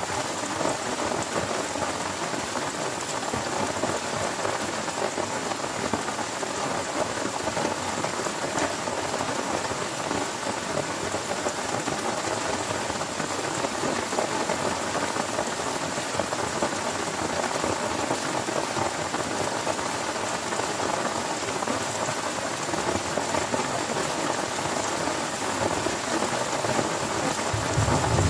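Heavy rain falling steadily on a tent. A low rumble of thunder starts right at the end.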